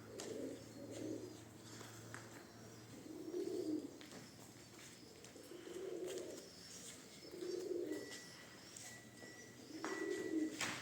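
Domestic pigeons cooing: about six low coos, one every second or two.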